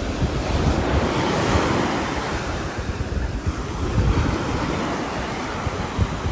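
Steady rain falling on a roof: a dense, even hiss of drops with a low rumble underneath.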